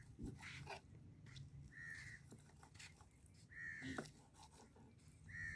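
A bird calling faintly outdoors: three short calls about two seconds apart, with a few faint clicks and knocks between them.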